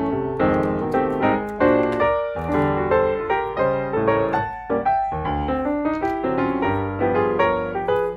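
Background piano music: a flowing run of piano notes and chords.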